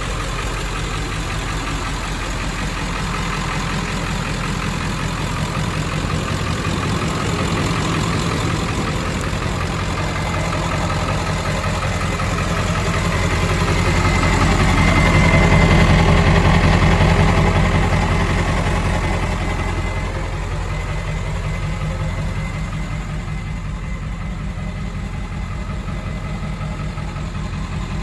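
Turbocharged engine running at idle, with a thin, high turbo whistle. It swells about halfway through as the engine is brought up a little, then settles back to idle.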